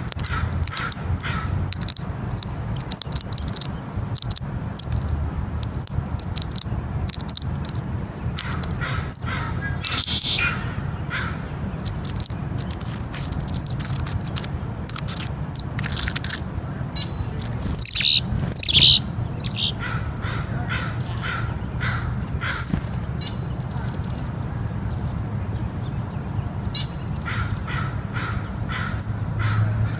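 Tits calling in short chirps and quick call series, with sharp taps now and then from beaks hammering at peanut shells, over a steady low rumble.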